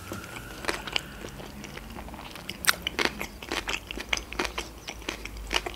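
A person chewing a mouthful of sushi roll close to the microphone: irregular soft crunches and wet mouth clicks, a few louder ones around the middle and near the end.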